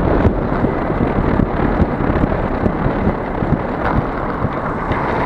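Strong wind buffeting the microphone of a camera carried on a mountain bike riding into a headwind: a loud, fluttering rush with no let-up.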